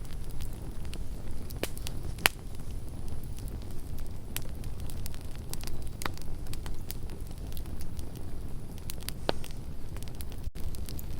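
Campfire burning: irregular sharp crackles and pops over a low, steady rumble, the loudest pop a little over two seconds in.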